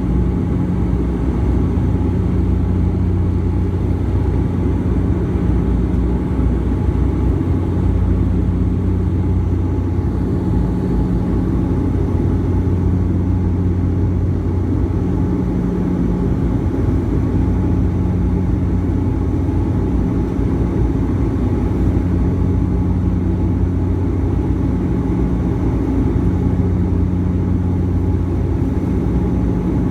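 Airliner engines and airflow heard from inside the passenger cabin during the climb after takeoff: a loud, steady low drone, with a hum that swells and fades every couple of seconds.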